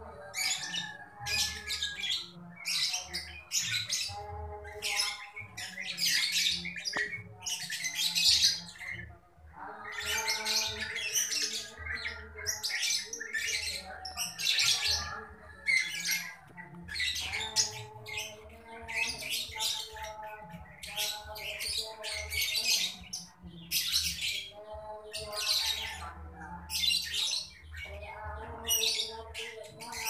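Birds calling and squawking over and over, in short sharp calls that come every second or so with hardly a break.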